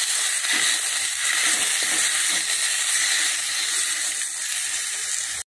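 Chopped onions, garlic, dried red chillies and tomatoes sizzling in oil in a stainless-steel kadai as they are sautéed and stirred with a wooden spatula: a steady frying hiss. It cuts out for an instant at the very end.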